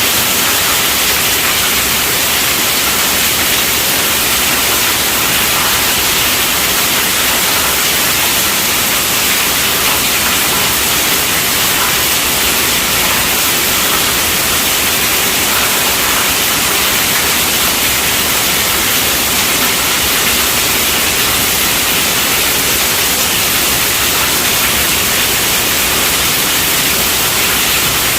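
Heavy rain falling on a tent roof: a steady, dense hiss without a break.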